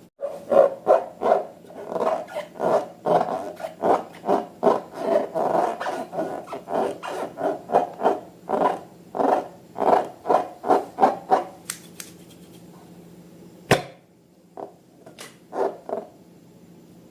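Slime squished by hand over and over, about three squelches a second, stopping about two-thirds of the way through. One sharp click and a few softer handling sounds follow.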